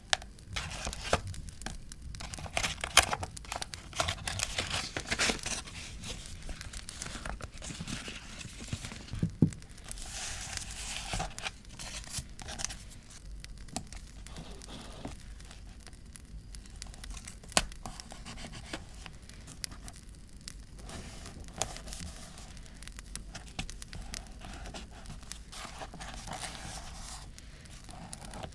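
Paper being handled for scrapbooking: tearing, crinkling and rustling, with sharp, irregular clicks and taps.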